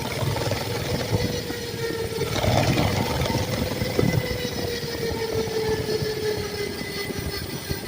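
Mini bike's small engine running at a steady speed while riding, with a steady whine that drops slightly in pitch over the last few seconds, over a low rumble.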